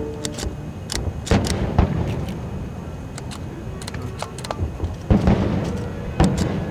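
Fireworks bursting: a rapid run of sharp bangs and crackles over a low rumble, with the heaviest booms about a second in and again about five seconds in.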